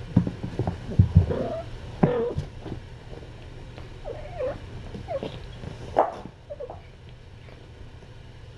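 Cats playing and wrestling: a run of thumps and scuffles in the first couple of seconds, with short squeaky cat calls scattered through, the last ones about six seconds in.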